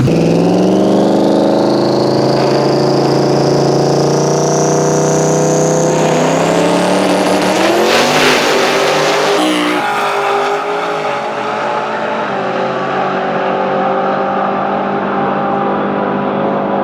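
Twin-turbo 4.6 modular V8 Mustang Cobra drag car launching and running a pass. The engine pitch and a high turbo whine climb steadily for several seconds. Around eight seconds in the sound surges, then drops off near ten seconds to a steadier, lower engine note.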